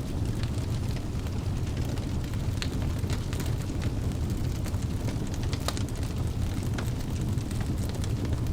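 Wood logs burning in a fireplace: a steady low rumble of the flames with irregular sharp crackles and pops from the burning wood.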